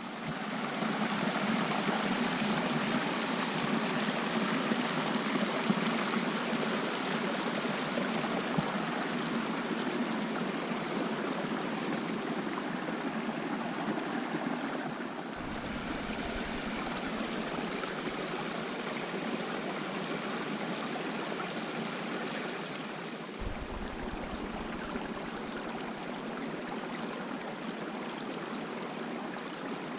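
Running water, a steady rushing flow of a stream. The low part of the sound shifts twice, about halfway through and again around three quarters of the way.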